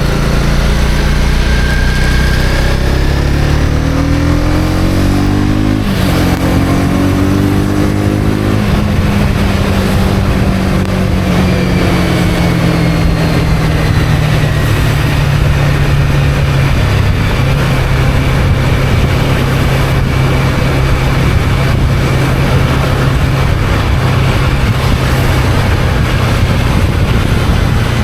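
Honda CB250R's single-cylinder engine accelerating: the revs climb, drop suddenly at an upshift about six seconds in, climb again, then ease off to a steady cruise. Wind and road noise run underneath.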